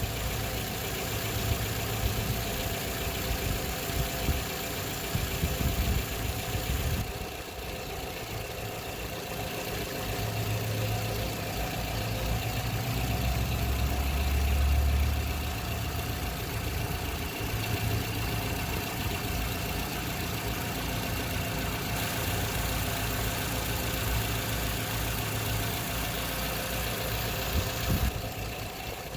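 2012 Toyota RAV4's engine idling steadily, warming up so the transmission fluid level can be checked.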